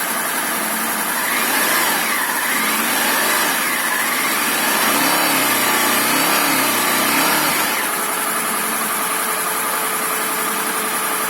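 Honda VFR800 VTEC's V4 engine running smoothly after a new cam chain and a valve adjustment, with no knock from the cylinder head: the knock caused by the stretched timing chain is gone. Its pitch rises and falls a few times around the middle.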